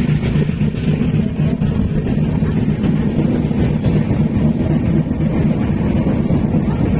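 Passenger train running at speed: a steady, loud low rumble of the moving train.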